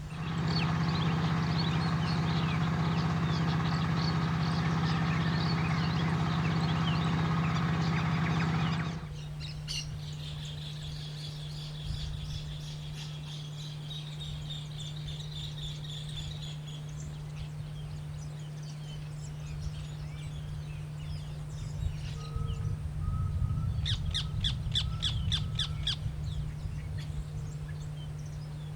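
Wild birds chirping and calling over a steady low hum. A louder steady drone runs under them for about the first nine seconds, then cuts off abruptly. Near the end comes a run of quick repeated calls.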